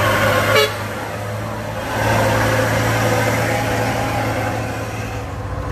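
Heavy truck engine running as the truck labours on a climb. About half a second in there is a short sharp noise and the engine sound drops, then it swells again about two seconds in.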